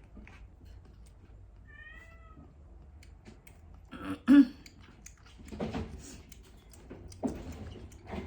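Kittens mewing: a short, thin, high mew about two seconds in, then a much louder brief cry about four seconds in, with more cries after.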